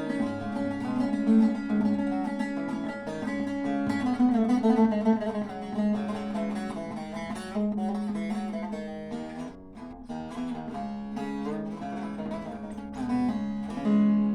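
Solo bağlama improvisation: runs of quick plucked notes over a steady ringing drone note, with a loud struck note near the end left to ring.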